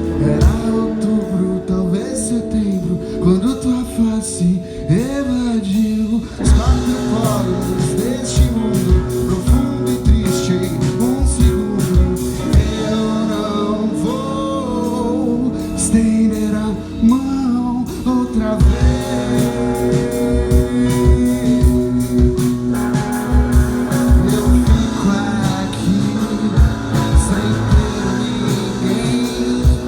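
Live indie rock band performance: a sung vocal line over electric guitars, bass and drums, loud and continuous.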